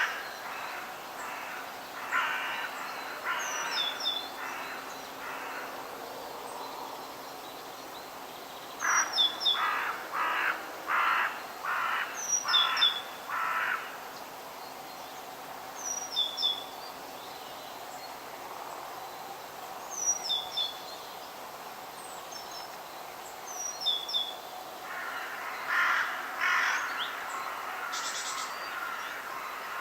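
Forest birds calling. One bird gives three bouts of repeated coarse caws, about two a second, while a smaller bird repeats a short high call every few seconds over a steady outdoor hiss.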